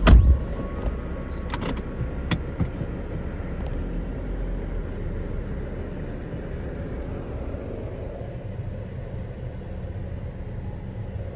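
A car driving on a dirt road, with a steady low rumble throughout. A loud thump comes right at the start, and a couple of sharp clicks follow about two seconds in.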